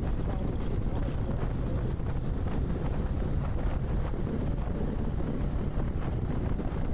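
Wind buffeting the microphone over a motorcycle engine running at a steady speed while riding.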